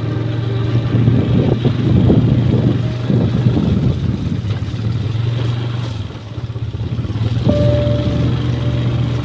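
Motorcycle engine running steadily as the bike is ridden along a rough road, dropping back briefly about two-thirds of the way through.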